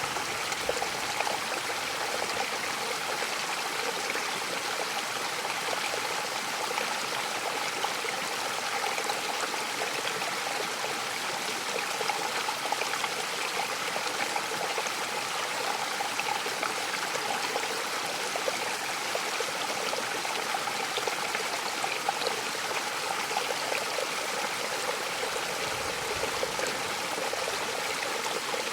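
Mountain waterfall: water falling and splashing in a steady, unbroken rush.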